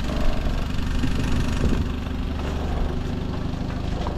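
Boat engine idling steadily, a low rhythmic chug.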